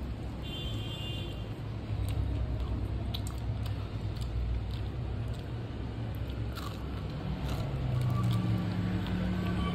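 A person biting into and chewing crispy fried chicken: scattered short crunches over a steady low hum.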